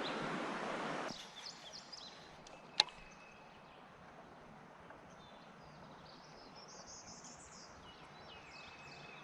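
A steady rushing noise that cuts off abruptly about a second in, then quiet outdoor river ambience with faint bird chirps and a single sharp click near three seconds.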